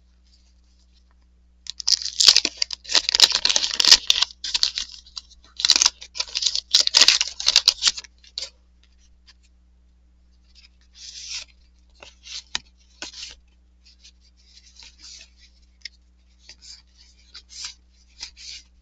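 Trading card pack wrapper being torn open, two loud stretches of ripping and crinkling in the first half. The cardboard cards are then handled and flicked through, with soft short rustles and slides.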